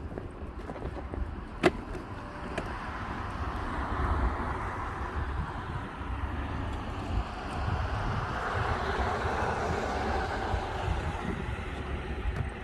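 Wind buffeting the microphone outdoors, a low rumble under a broad rush that swells about four seconds in and again near the end. There is one sharp click a couple of seconds in.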